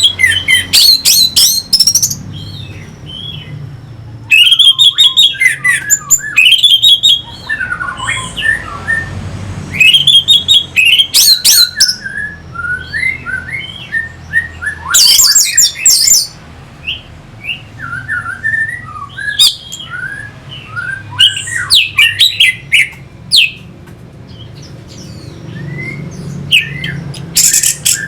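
Orange-headed thrush singing: loud bursts of rapid, varied whistled and chattering phrases every few seconds, with quieter scattered notes in between.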